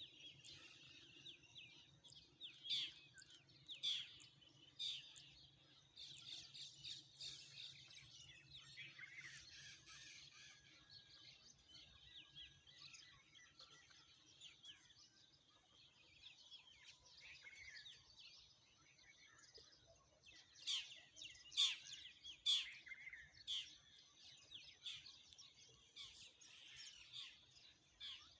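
Several small birds chirping and singing: quick, sharp calls and short trills, with a cluster of louder, sharper chirps a few seconds in and another just past the middle. A faint low steady hum sits underneath.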